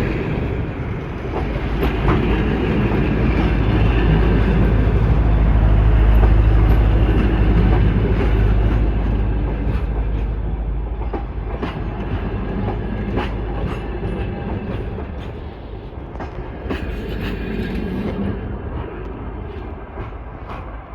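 Departing passenger train rolling past, a heavy low rumble with wheels clicking over rail joints. The rumble swells, then fades as the train pulls away, leaving scattered wheel clicks near the end.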